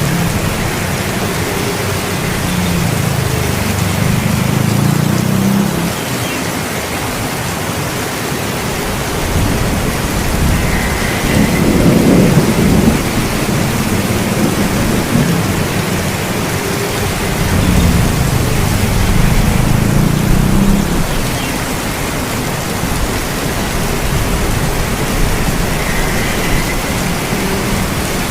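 Steady heavy rain falling, with low rolling thunder rumbling three times: briefly early on, more strongly near the middle, and again about two-thirds of the way through.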